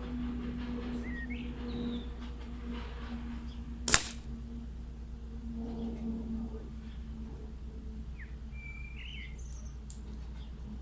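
A single shot from a .22 Stoeger air rifle about four seconds in, one sharp report. Birds chirp briefly before and after it.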